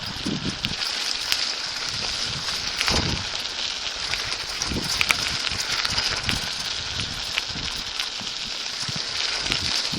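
Bicycle riding noise picked up by a phone strapped to the rider's chest: a steady hiss of tyres rolling on the path with crackling and rubbing, and irregular low thumps from wind and movement on the microphone.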